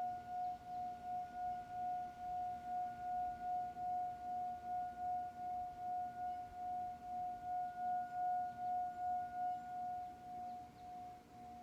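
Singing bowl ringing with one long, pulsing tone that wavers in loudness two or three times a second, dying away near the end.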